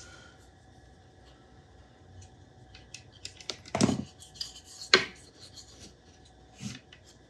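Small hard parts and tools being handled and set down on a workbench: scattered light clicks and rubbing, with two louder knocks about four and five seconds in.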